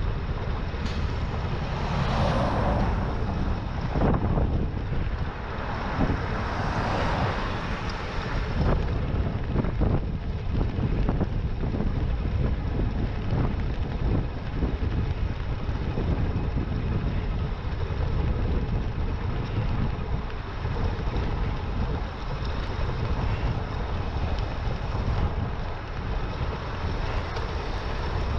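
Wind buffeting the microphone of a camera riding on a moving e-bike, a steady low rumble, with two louder rushing swells about two and seven seconds in.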